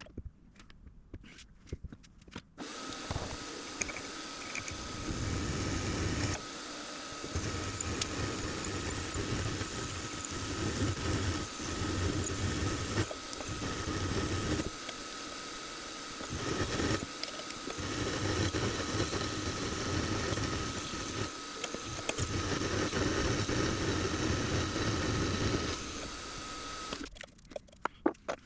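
Benchtop machine tool switched on and running steadily with a constant high whine, its low rumble swelling and easing in stretches as the cut loads and unloads, then switching off near the end.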